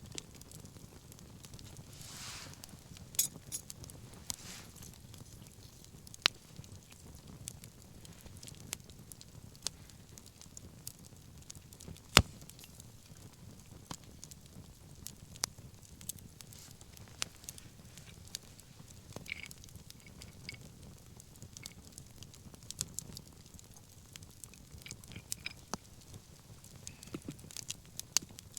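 Wood fire crackling: scattered sharp pops at uneven intervals over the steady low rumble of the flames, with one loud pop about twelve seconds in.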